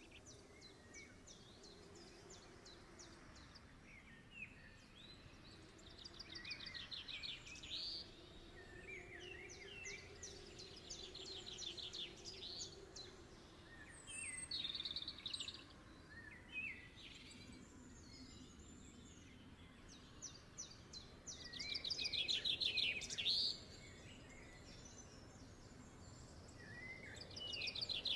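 Birdsong: a songbird singing quick trilled phrases a few seconds apart, the loudest around the middle and near the end, over faint steady background noise.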